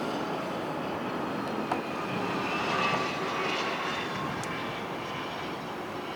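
Cessna Citation CJ2+ business jet's twin turbofan engines running: a steady rushing noise with a faint whine that swells to its loudest about three seconds in, then eases off. A single short click just under two seconds in.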